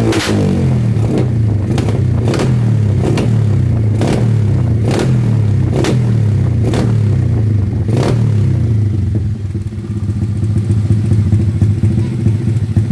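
Drag bike's open-pipe exhaust idling loudly after a rev falls away, with sharp cracks about once a second for the first eight seconds; after that the idle turns rougher and uneven.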